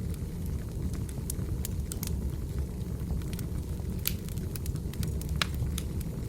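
Wood fire crackling: irregular sharp pops and snaps over a steady low rumble, with the loudest pops about four and five and a half seconds in.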